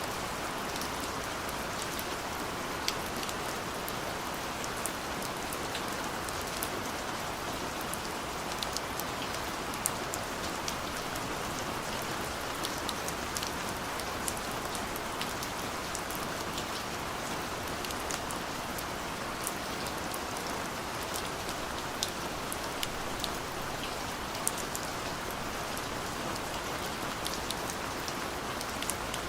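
Steady rain falling, an even hiss with many separate drops ticking against a surface.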